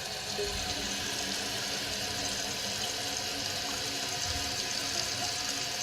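2017 Kohler Wellworth toilet tank refilling after a flush: water running in through the fill valve with a steady hiss.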